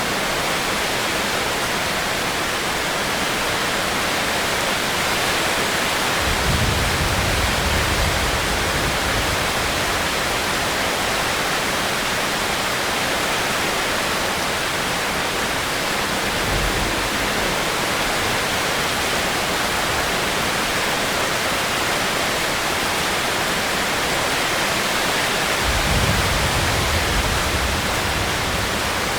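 Steady rainstorm, an even dense hiss of falling rain, with a low rumble swelling up for a few seconds about six seconds in, briefly around the middle, and again near the end.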